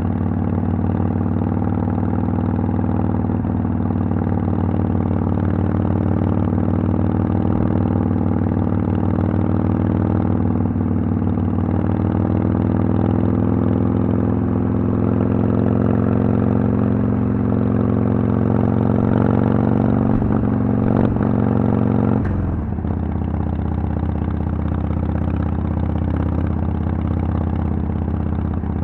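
Harley-Davidson Sportster XL883L's air-cooled V-twin running through Vance & Hines Twin Slash exhaust pipes. Engine speed climbs slowly for several seconds, then drops suddenly about two-thirds of the way in and holds steady at lower revs.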